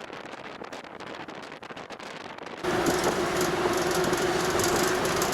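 A train running, heard as rail rumble with scattered clicks. About two and a half seconds in, the sound suddenly gets louder and a steady hum comes in.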